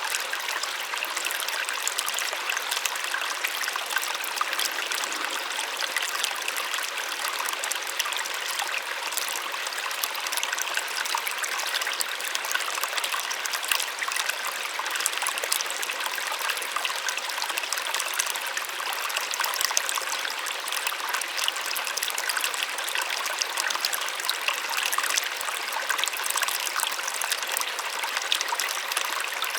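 Small waterfall splashing and trickling steadily, a bright, even rush of falling water with many fine splashes and little low rumble.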